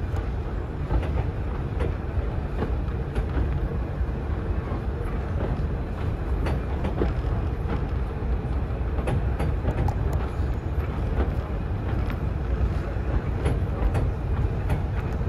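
A steam-hauled heritage passenger train running, heard from on board a carriage: a steady low rumble with scattered light clicks from the wheels and running gear.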